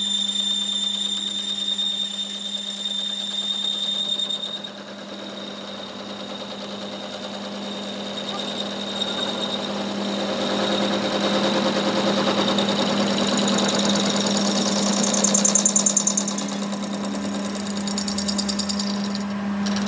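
Workshop machinery running: a steady low hum with high whining tones that stop about four seconds in, then a fast, rattling noise that swells and peaks near the middle before easing off.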